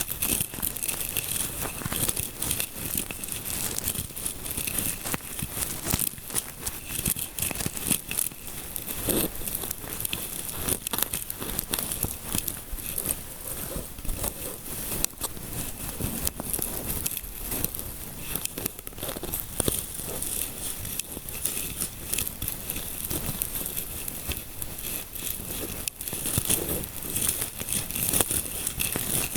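Close-miked fingertips scratching and rubbing in an ASMR scalp massage: a dense, continuous crinkling crackle with irregular louder scratches.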